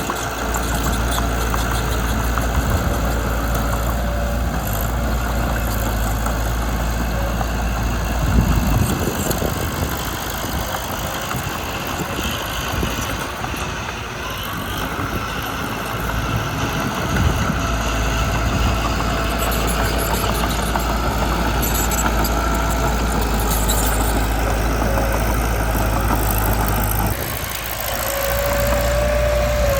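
Mitsubishi BD2 bulldozer's diesel engine running steadily. Its low rumble eases off for a few seconds about a third of the way in and again near the end, with a short rising squeal just before the end.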